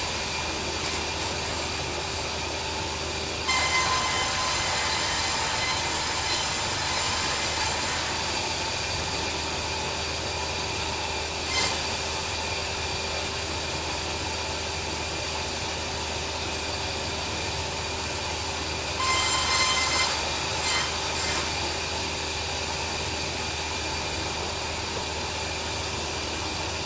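Band sawmill running steadily with a constant whine, sawing a log into boards; the sound grows louder from about four to eight seconds in and again around twenty seconds.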